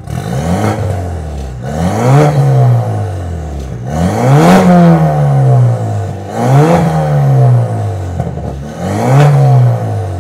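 BMW 420i's 2.0-litre turbocharged four-cylinder, fitted with a custom exhaust and downpipe, being revved while parked. The pitch rises and falls back four times.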